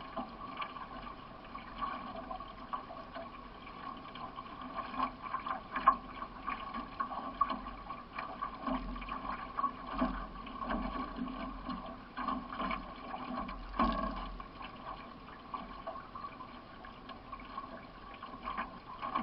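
Solo racing canoe under way, picked up onboard: water running along the hull with a steady wash, broken by frequent short splashes and knocks from paddle strokes.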